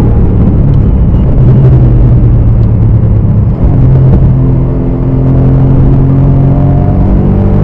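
BMW E39 M5's V8 engine running hard under load. It holds a fairly steady pitch, dips briefly about three and a half seconds in, then climbs steadily in pitch as the car accelerates.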